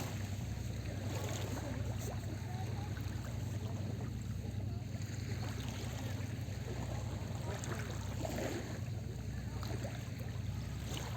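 Small sea waves washing and lapping at the shore, over a steady low hum.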